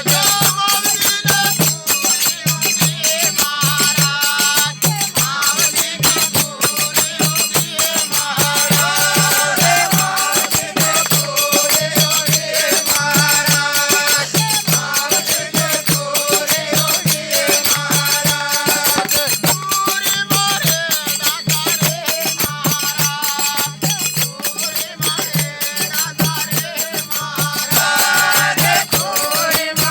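Devotional bhajan music: a melody over a steady drum beat of about two strokes a second, with continuous jingling, rattling percussion.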